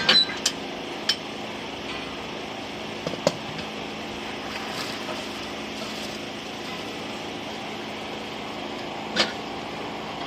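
Steady machinery hum in a truck-wheel workshop, broken by a few short, sharp knocks: several close together in the first second, one a little after 3 s and one after 9 s.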